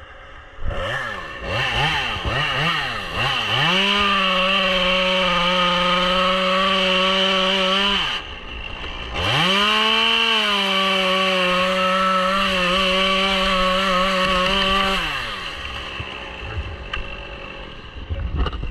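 Two-stroke chainsaw revved in a few quick throttle blips, then held at high revs for about four seconds. It dips briefly, goes back up for about six seconds, then drops back to idle.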